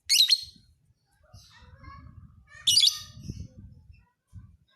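Lovebird calling: a loud shrill chirping call right at the start and another about two and a half seconds later, with softer chirps between them. A faint low rumble runs underneath.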